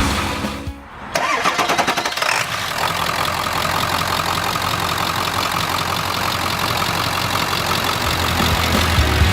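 Ford 7.3L Power Stroke turbo-diesel V8 cranking, starting about a second in, catching after a second or so and settling into a steady idle.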